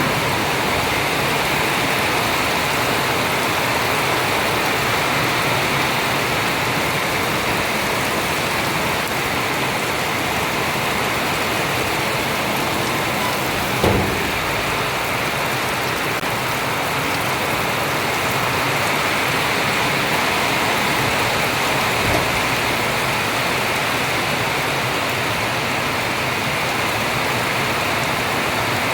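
Steady, heavy rain falling, with a brief knock about halfway through.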